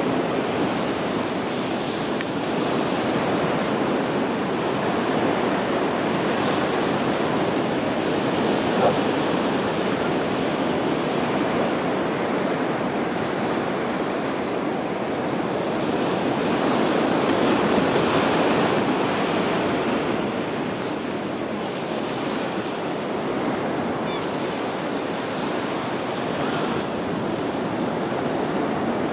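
Surf breaking on a sandy beach, a steady wash of waves that swells a little about two-thirds of the way through, with wind buffeting the microphone.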